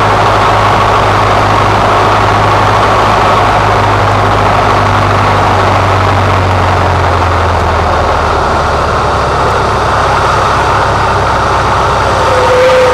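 Cessna 150's four-cylinder piston engine and propeller running with a loud, steady drone heard from inside the cabin, over a constant rush of noise; the low hum drops slightly in pitch about two thirds of the way through.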